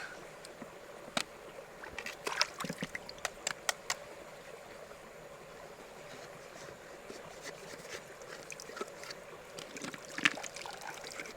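Shallow river water lightly splashing and trickling, with scattered small clicks and knocks, bunched about two to four seconds in and again near the end.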